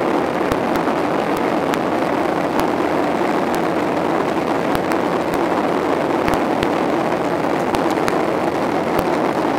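Steady roar inside the cabin of a Boeing 737-800 in flight, its CFM56 jet engines and the airflow making an even rushing noise. Scattered faint sharp clicks sound through it at irregular intervals.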